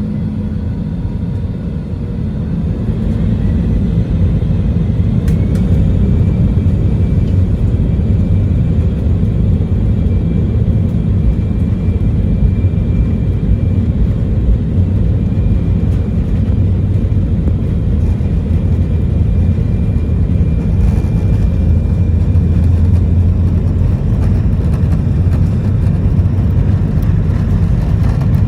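Jet airliner engines at takeoff power: a loud, steady, low rumble with a faint high whine. It builds over the first few seconds and then holds.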